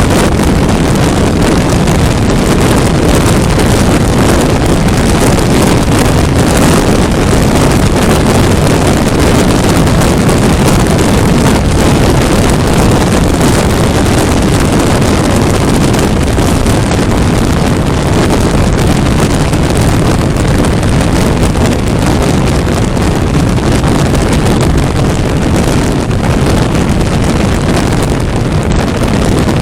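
Loud, steady wind rush on the microphone of a 400cc motorcycle riding at highway speed, drowning out the engine.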